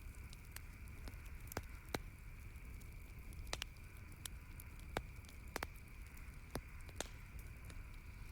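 Wood campfire crackling: irregular sharp pops and snaps, about a dozen, over a steady low background noise.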